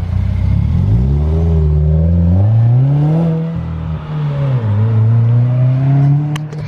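Car engine revving through a newly fitted aftermarket exhaust, louder than the stock exhaust it replaced. It starts abruptly, climbs in pitch over the first few seconds, drops back about four seconds in, then holds a steadier raised rev.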